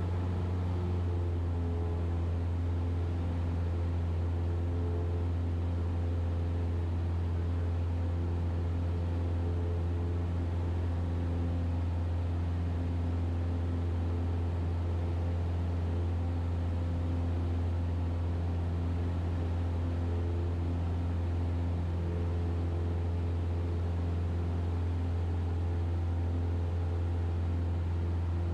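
Steady drone of a Cessna 172RG's four-cylinder Lycoming engine and propeller heard from inside the cockpit, a deep even hum with a constant hiss of airflow over it.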